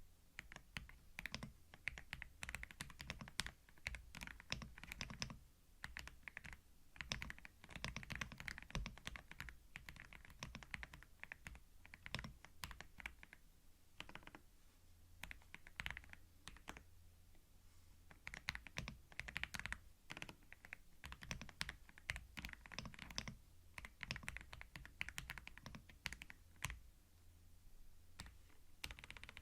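Computer keyboard typing, quiet and close-miked in binaural stereo: runs of rapid key clicks lasting a few seconds, broken by short pauses.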